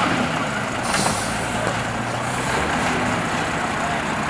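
A motor vehicle's engine running steadily, with a single sharp click about a second in.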